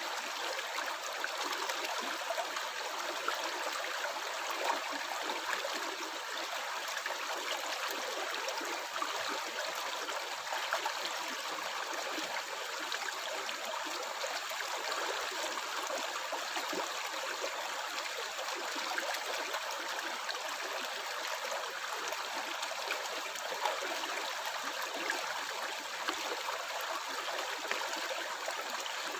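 A stream running and gurgling steadily, an even rush of water with small splashes and gurgles flickering through it.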